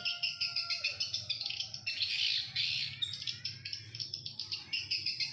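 Swiftlet calls: a dense, continuous run of rapid high chirps and twitters, over a faint steady low hum.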